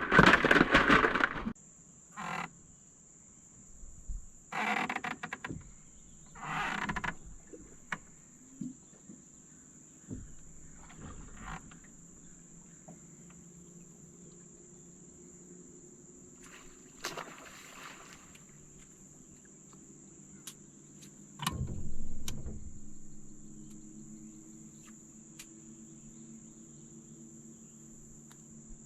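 Insects droning steadily at a high pitch, with a faint low hum underneath. Short bursts of handling noise come and go, the loudest at the very start and again about 22 seconds in.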